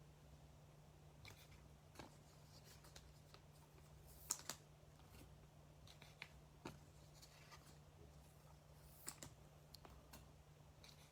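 Near silence with faint, scattered clicks and taps of trading cards being handled and set down, the strongest a pair of clicks about four seconds in, over a faint steady hum.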